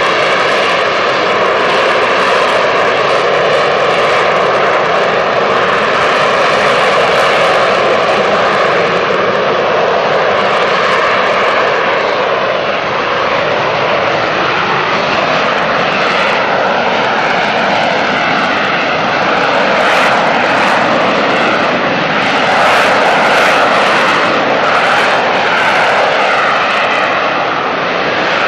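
The Rolls-Royce Pegasus turbofan of an AV-8B Harrier II jump jet, running loud and steady as a dense jet rush with a whine on top that drifts slightly in pitch. It swells a little about two-thirds of the way through.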